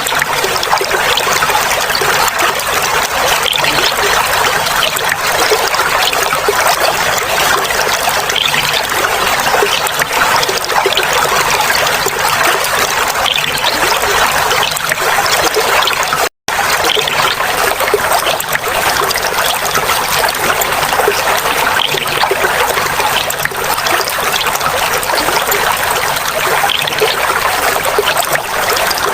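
Clear water trickling and splashing over stones, a steady babbling with no change in flow. About sixteen seconds in it cuts out to silence for a split second, then carries on unchanged.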